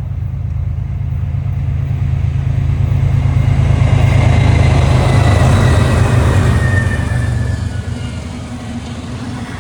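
Diesel locomotives of a BNSF container train going by: a heavy low engine rumble that swells to its loudest midway and eases off near the end, with a faint high whine that drops slightly in pitch as it passes.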